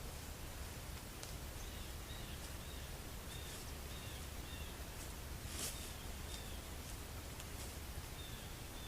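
A bird calling in a series of short, high notes, repeated through most of the stretch, with a few brief rustles, the loudest about halfway through.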